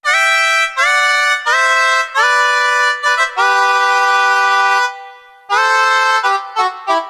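Yamaha SY77 synthesizer playing a patch in a string of chords, each note bending slightly up in pitch as it starts. A longer chord is held, fades briefly about five seconds in, then quicker notes follow.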